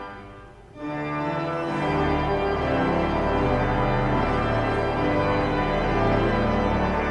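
Pipe organ playing sustained chords, with a deep pedal bass note. A chord dies away in the first second before the next one begins.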